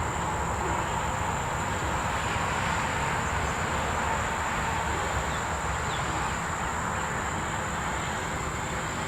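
Steady outdoor evening ambience: insects trilling on a constant high note over a broad, even low rumble.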